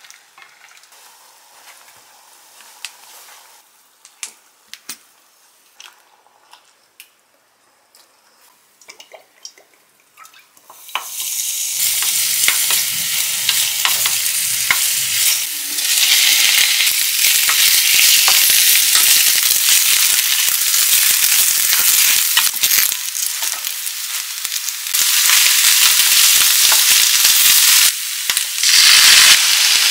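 Quiet clicks and taps of kitchen utensils, then about eleven seconds in minced garlic goes into hot oil in a frying pan and a loud sizzle starts. The sizzling continues as fish cake strips and cabbage are stir-fried, with the ticks and scrapes of a wooden spoon.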